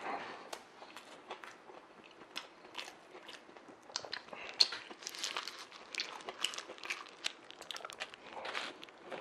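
A person chewing a mouthful of Subway sandwich: many short, wet, clicky mouth sounds, the loudest about halfway through, then biting into the sandwich again near the end.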